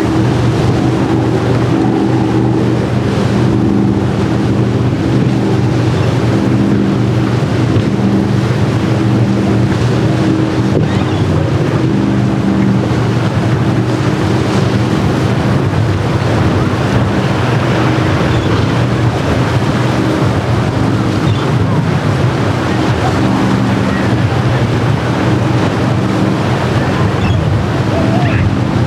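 Motorboat engines running steadily with a low, even drone, over the wash of waves and wind buffeting the microphone.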